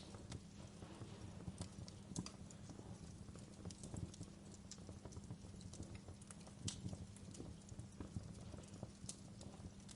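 Wood fire burning in a fireplace: a steady low rumble from the flames with irregular sharp crackles and pops from the logs, a few of them louder than the rest.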